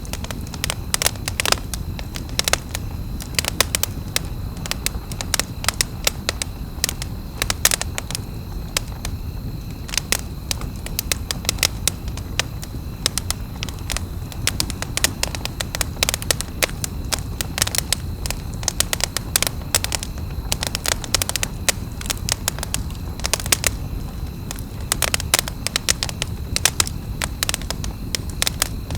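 Wood campfire crackling, with frequent irregular pops and snaps over a steady low rumble of the burning fire.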